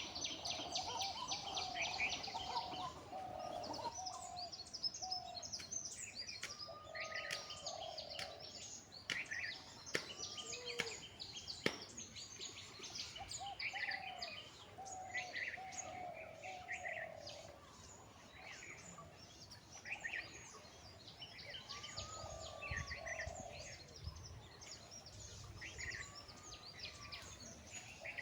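Several birds calling at once: a repeated lower warbling call mixed with many quick, higher chirps over a faint steady background.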